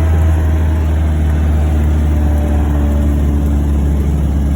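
1949 MG YT's four-cylinder engine running steadily while the car is driven in first gear, a continuous low drone heard from inside the cabin.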